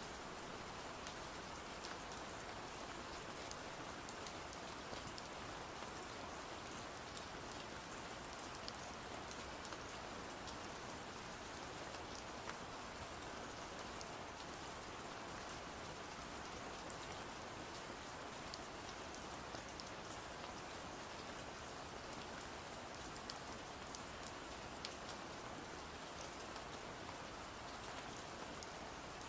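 Steady rain falling, an even hiss sprinkled with many small sharp ticks.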